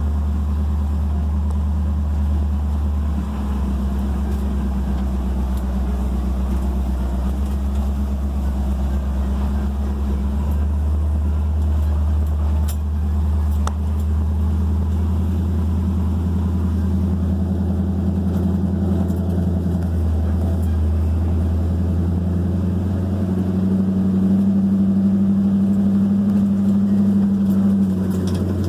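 1978 Jeep CJ7's engine running steadily, a low drone whose pitch shifts slightly a few times.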